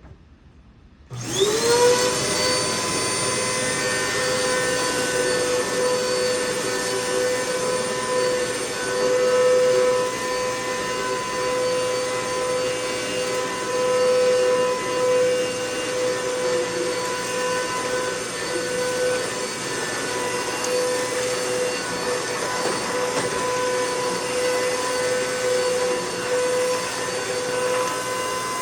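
Hoover MaxLife Total Home Pet upright vacuum switched on a little over a second in, its motor whining up to speed and then running steadily with a high whine. It is vacuuming test dirt.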